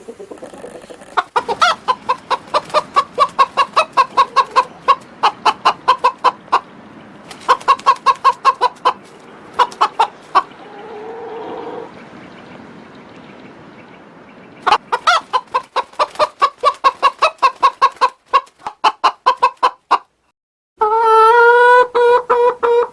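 Chickens clucking in rapid runs of short notes, about five a second, with pauses between the runs. Near the end a longer, held, wavering call begins.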